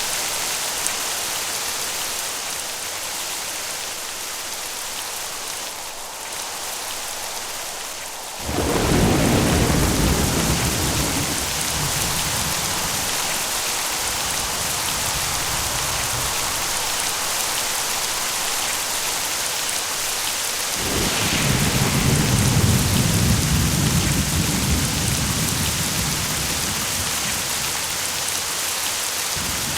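Steady rain hissing, with two long rolls of thunder: the first begins about a third of the way in and rumbles for several seconds, the second begins about two-thirds of the way in and fades out near the end.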